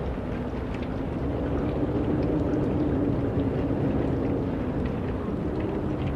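Steady low rumble of wind, with a faint low hum that swells for a few seconds in the middle.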